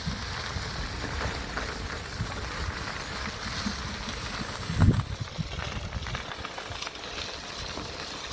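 Wind buffeting a microphone: a fluctuating low rumble with hiss, and a single louder bump about five seconds in.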